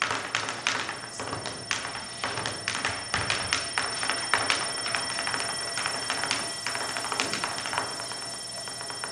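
Tap shoes striking a stage floor in fast, uneven runs of sharp taps that start abruptly.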